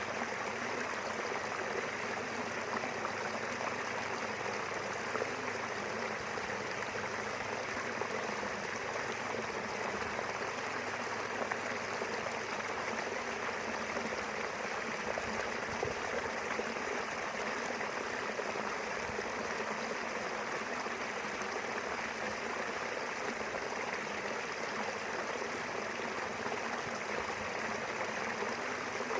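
Small river running steadily, an even rushing and babbling of flowing water.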